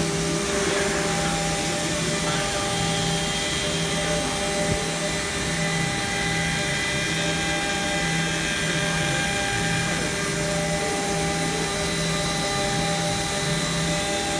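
A K6090T desktop mini CNC router running, its spindle giving a steady, high-pitched whine over a constant rush of noise, with a lower motor hum that cuts in and out every second or so as the machine moves.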